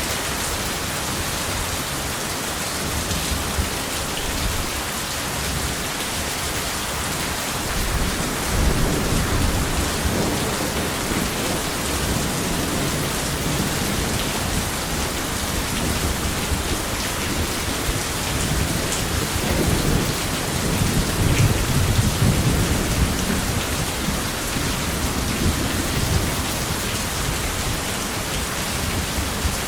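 Steady heavy rain, with thunder rumbling twice: once about a quarter of the way in and again, longer and louder, past the middle.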